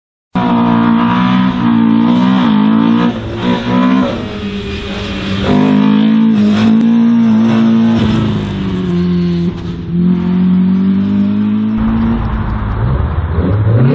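Race car engine on an autoslalom run, the revs rising and falling again and again as the driver accelerates and lifts between cones. It cuts in abruptly a moment in.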